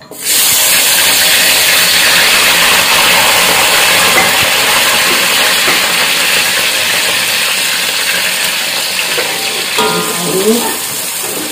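Chopped spring onions dropped into hot cooking oil in a pan: a loud sizzle that starts suddenly about a quarter second in and carries on steadily as they fry, easing slightly toward the end.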